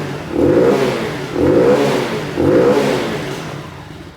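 Fuel-injected 125cc single-cylinder engine of a Bullit Heritage monkey bike being blipped from idle, revving up and dropping back about once a second, three or four times, then settling back to idle near the end.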